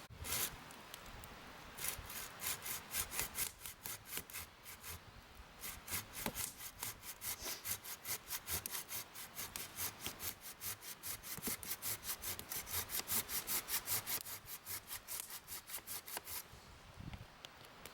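Hand saw cutting through wood in fast, even back-and-forth strokes, about four a second. It stops near the end.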